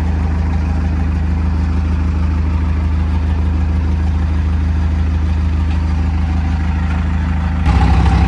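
Heavy diesel engine of a backhoe or truck idling steadily, with a deep low hum; near the end it gets louder and its note shifts slightly as the engine picks up.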